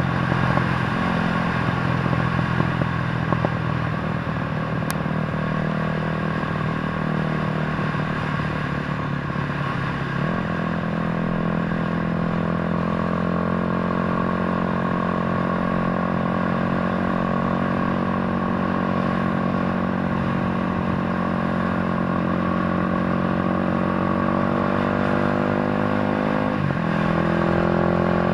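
Motorcycle engine running steadily, its pitch stepping up about ten seconds in and dipping briefly before picking up again near the end, like changes of throttle or gear.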